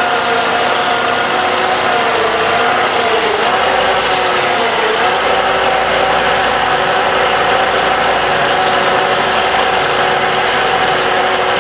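Wood lathe running steadily with a dense mechanical rattle, its motor hum sagging briefly in pitch about two and a half seconds in and again about five seconds in.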